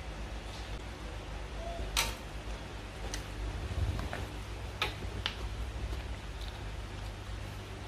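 A person chewing a mouthful of pizza, with a handful of sharp wet mouth clicks and lip smacks spread through the chewing.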